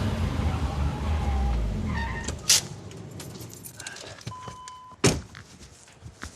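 A low vehicle rumble that fades over the first couple of seconds, then two sharp thunks a few seconds apart, a short steady electronic beep just before the second thunk, and a few light clicks.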